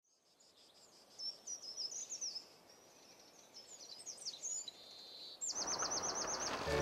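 Forest songbirds chirping and twittering, ending in a fast trill of about ten quick, repeated falling notes. A steady hiss of forest ambience swells in about five and a half seconds in.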